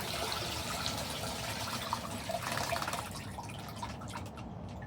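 Water pouring and splashing into a garden pond, easing off about three and a half seconds in to scattered drips.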